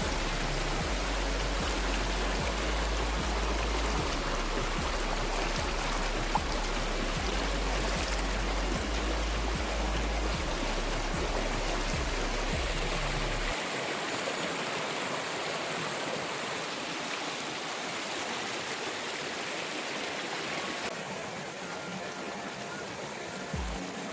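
Waterfall and its stream: a steady rush of falling and flowing water, with a low rumble underneath for the first half.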